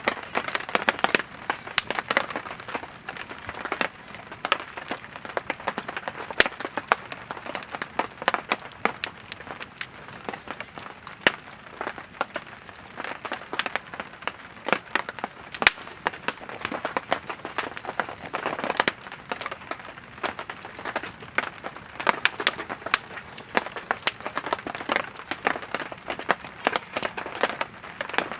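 Burning firewood in a campfire crackling, with a steady hiss and frequent sharp pops and snaps, a few louder snaps standing out.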